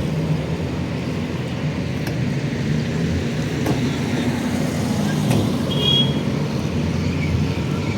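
A motor vehicle running with a steady low rumble, with a short high tone about six seconds in.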